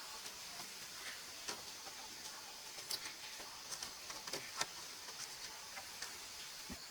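Scattered light clicks and taps at irregular intervals over a steady high-pitched hiss.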